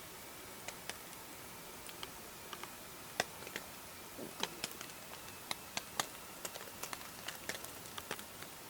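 Scattered drips and raindrops tapping irregularly on a hammock rain tarp, over a faint steady hiss of easing rain. The taps come a little more often from about three seconds in.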